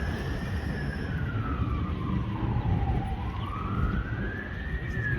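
Fire engine siren in a slow wail, rising and falling in pitch about once every four to five seconds, over a low rumble of engine and road noise.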